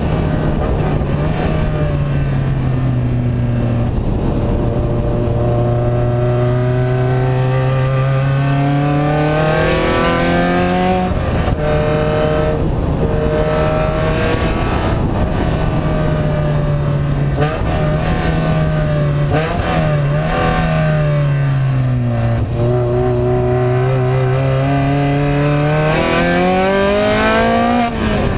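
Vehicle engine running through an open, straight-through exhaust, its pitch climbing and falling several times as it speeds up and eases off, with sudden drops like gear changes about 11 s and 20 s in.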